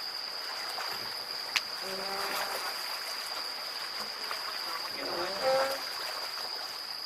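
River water flowing and trickling past the boat, under a steady high-pitched insect chirr. A sharp click about a second and a half in, and brief distant voices twice.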